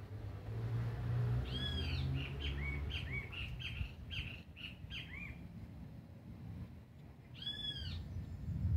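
A bird calling: a quick run of short arched chirps for a few seconds, then one more arched call near the end, over a low steady rumble.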